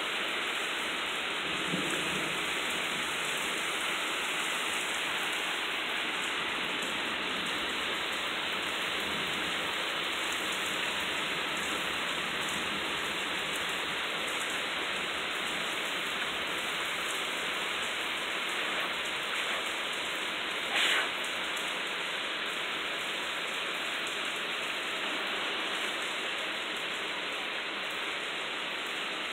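Loud, steady rain, an even hiss of many drops falling, with one brief louder noise about two-thirds of the way through.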